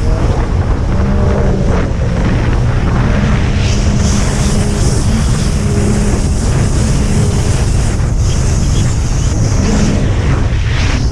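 Racing jet ski's engine running hard, with heavy wind buffeting the microphone and water noise; a high hiss swells and fades a few times.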